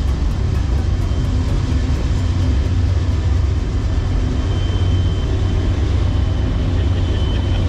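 Freight train crossing a steel truss railroad bridge: a loud, steady low rumble with no horn.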